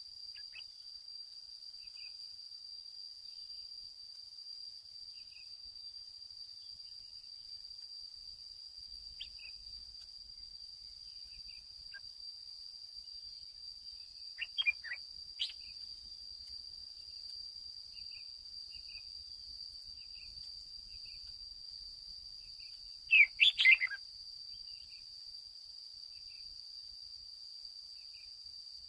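Red-whiskered bulbul singing short, loud phrases, once about halfway through and again, loudest, about two-thirds of the way in. A steady high insect drone runs underneath, with faint regular chirps.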